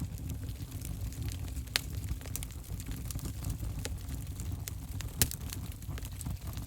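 Wood fire burning in an open fireplace, with a steady low rumble and scattered sharp crackles and pops. The loudest pops come about two seconds in and just after five seconds.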